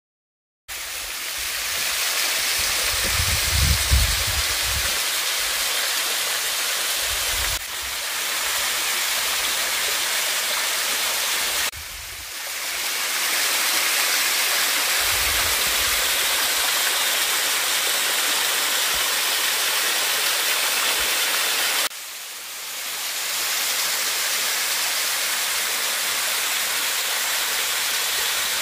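Waterfall pouring, a steady rush of water that starts abruptly just under a second in. The rush dips briefly three times and swells back, with a few low rumbles about three seconds in and again around fifteen seconds in.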